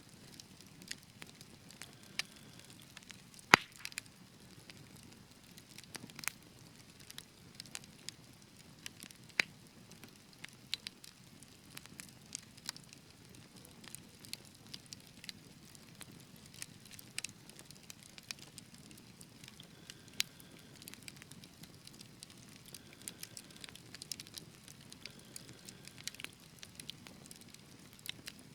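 Wood fire crackling: irregular sharp pops and snaps over a low steady hiss of burning, with one loud pop about three and a half seconds in.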